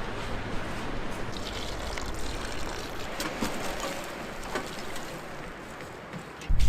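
Water lapping and trickling, with a few light drips and splashes. Just before the end a sudden loud rush of wind on the microphone cuts in.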